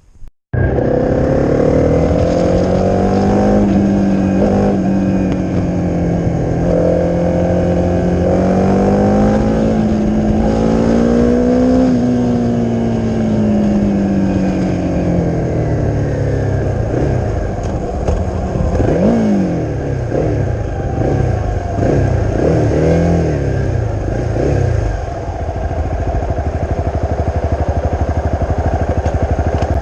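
Honda CRF250's single-cylinder four-stroke engine running through an aftermarket Leo Vince exhaust while riding. The engine note holds fairly steady, drops off about halfway through, then rises and falls in several quick swoops before settling again.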